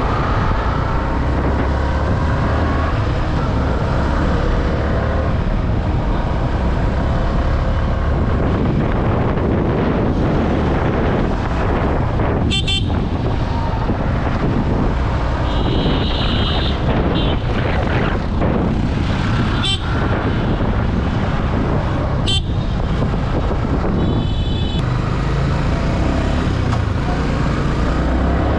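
Yamaha R15 V3's single-cylinder engine running at road speed with heavy wind rush, its pitch rising through the gears near the start. A vehicle horn honks twice, once about midway and once near the end.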